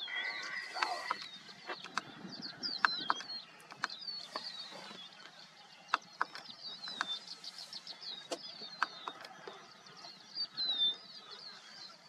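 Small birds chirping in quick, high repeated phrases, with scattered sharp clicks through it.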